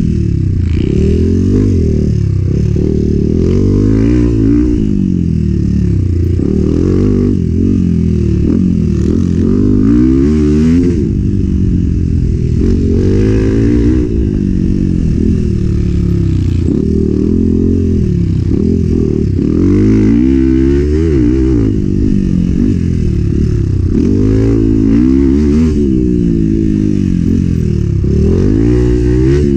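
Enduro motorcycle engine revving up and down over and over as the bike is ridden hard off-road, its pitch climbing and dropping every second or two with throttle and gear changes. The sound is heavy and low, with little treble.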